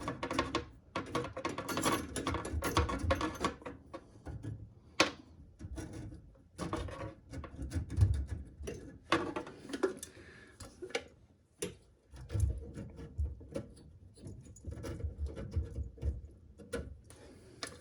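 Steel cable of a hand drum drain snake being pushed into a clogged sink drain: irregular clicking, scraping and knocking as it is worked toward the pipe elbow, with low thumps now and then.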